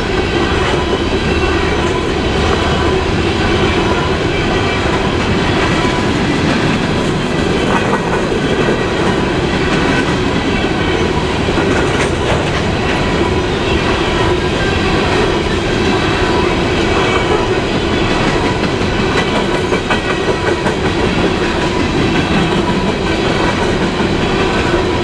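Freight train cars rolling past steadily: wheels running on the rail with a clickety-clack over the joints and a faint steady whine above.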